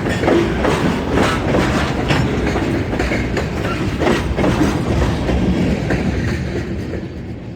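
HO scale model train rolling along the track, its wheels clicking irregularly over the rail joints. The sound fades out near the end.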